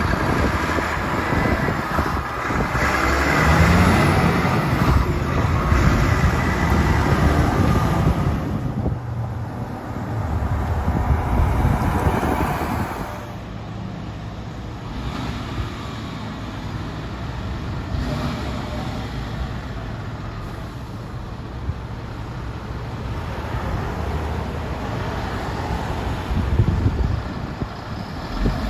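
Heavy diesel trucks driving past with engines running, loudest in the first half before settling to a steadier, quieter rumble.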